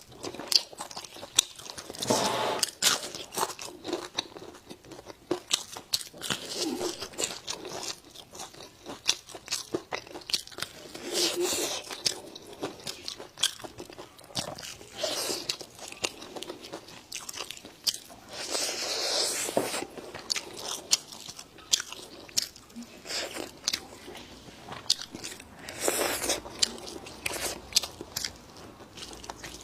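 Close-up biting and chewing of crispy fried pomfret, with a dense, irregular crunching that comes and goes between mouthfuls.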